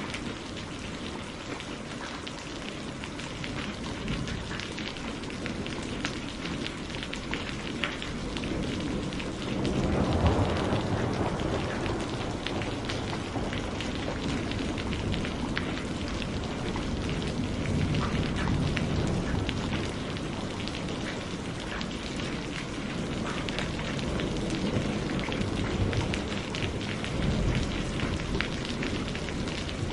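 Steady rain falling, with a dense patter of individual drops. A low rumble swells up about a third of the way in and again twice later.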